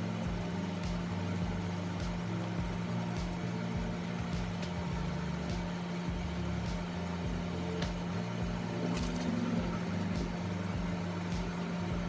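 Steady hum of a small electric motor, with a regular low throb and faint sharp clicks about once a second.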